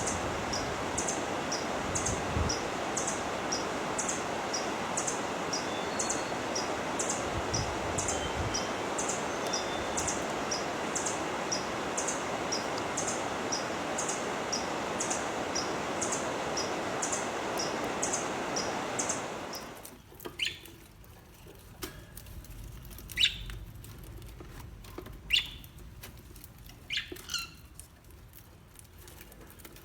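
A steady hiss with a short high chirp repeating about twice a second. About twenty seconds in it cuts to a quieter scene with a handful of separate short, falling bird chirps.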